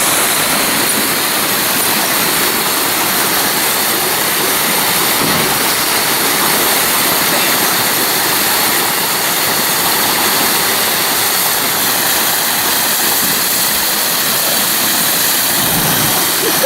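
Rushing creek water pouring over rock close by, a loud, steady roar with no break.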